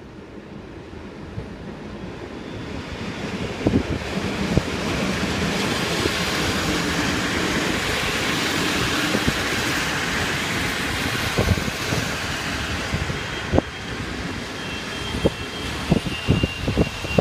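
Electric-locomotive-hauled passenger train coming into the station and rolling past, its rumble growing louder over the first five seconds. The wheels clack over rail joints and points, sparsely at first and in quick clusters near the end, when a faint high squeal also sets in.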